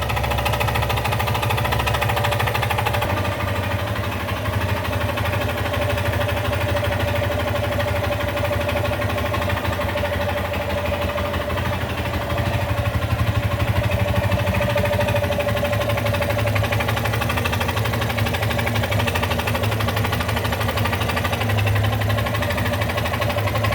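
Yamaha XTZ Lander 250's single-cylinder, air-cooled engine running steadily at a constant speed, with the unexplained mechanical noise that the owner is concerned about at 34,000 km.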